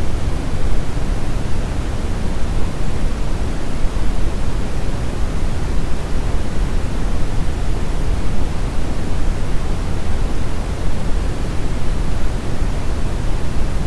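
Steady synthetic brown noise: an even, deep rushing hiss weighted toward the low end, with no changes or events.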